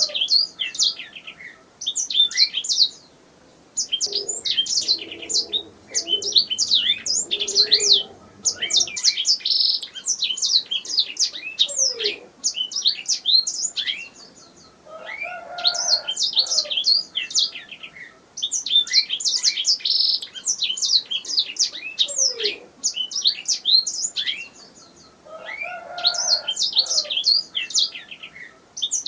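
Domestic canary singing: phrases of fast, high trills and chirps a few seconds long, broken by short pauses, with some lower warbled notes among them.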